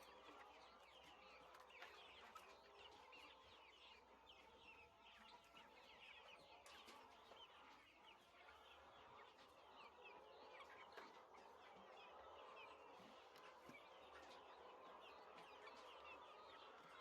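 A flock of chickens calling faintly, with many short, overlapping chirps and clucks.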